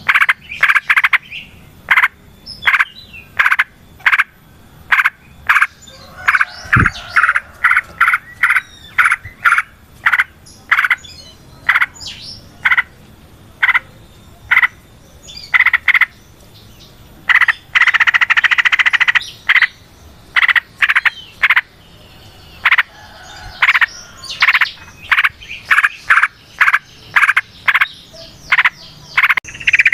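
Yellow-vented bulbul (trucukan) calling: a long series of short, loud, bubbly notes, one after another, with a longer run of fast chattering about eighteen seconds in.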